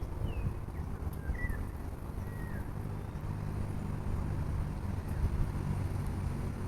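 Wind rumbling on the microphone over a low steady hum that grows a little stronger partway through, with a few short, falling bird chirps.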